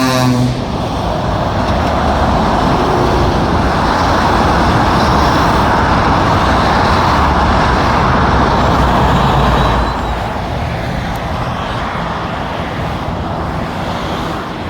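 Heavy motorway traffic passing below, the tyre roar and diesel engines of lorries giving a loud steady rushing that swells and then eases about ten seconds in. A pitched horn cuts off in the first half second.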